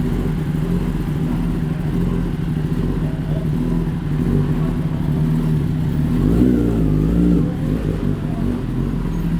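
Kawasaki ZX-10R's inline-four engine with an Akrapovic exhaust running steadily, with a brief rise and fall in revs about six seconds in.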